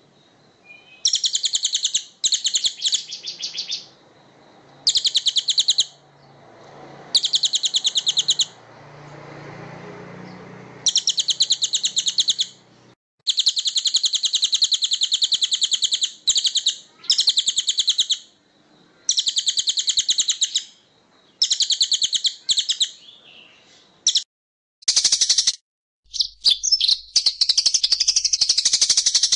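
A small songbird singing rapid, high-pitched trills in repeated bursts of one to three seconds with short gaps between them; in the last few seconds the song runs on as a continuous jumble of fast notes.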